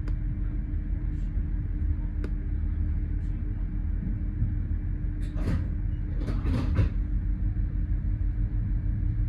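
Steady low rumble and constant hum inside the passenger saloon of a Great Western Railway Class 800 train in motion, with a few short hissing bursts about five to seven seconds in.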